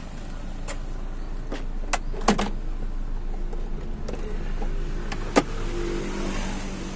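A Suzuki Katana GX engine idling smoothly, heard as a steady low hum from inside the cab. Several sharp clicks and knocks from handling inside the cab sound over it, the sharpest about five seconds in.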